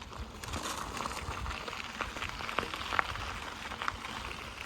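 Mountain bike being ridden on a dusty dirt road: steady crackling tyre noise with scattered small clicks and rattles.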